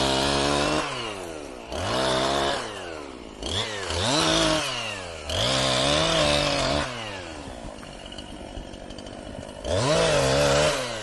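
Chainsaw revving up to full throttle and dropping back toward idle, five times in short bursts of about a second or so each, with a longer lull before the last one.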